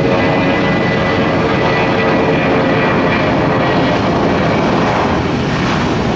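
Jet airliner engines running loud, a steady roar with a thin whine through it that fades over the first few seconds.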